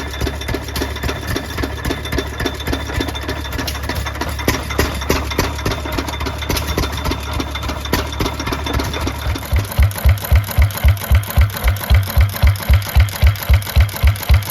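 Antique engines running with a rapid, busy knocking. About nine and a half seconds in, the sound changes abruptly to a single slow engine beating out strong, even thumps at about four a second.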